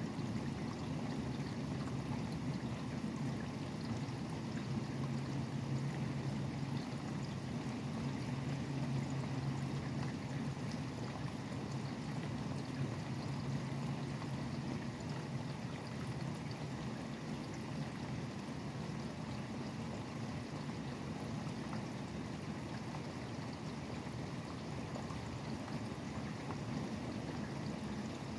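Steady rain falling, with a constant low rumble of highway traffic underneath.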